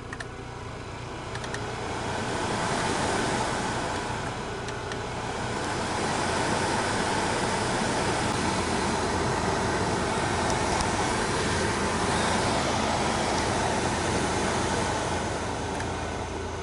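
Opel Vectra C heater blower fan running with a steady rush of air, growing louder about two seconds in and again about six seconds in. A faint remaining motor noise is put down by the owner to new brushes not yet bedded to the commutator.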